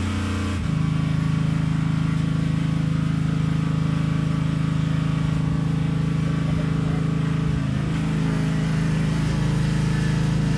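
Petrol lawn mower engine running at a steady speed.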